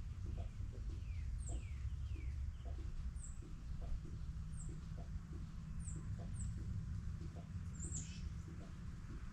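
Several wild songbirds calling: short high chirps repeated roughly once a second, a few lower down-slurred calls, and one louder, longer call near the end, over a steady low rumble.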